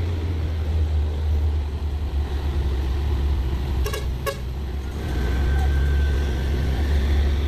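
Heavy truck diesel engine running with a deep, steady drone that grows louder about five seconds in. Two short toots come just before and just after four seconds in.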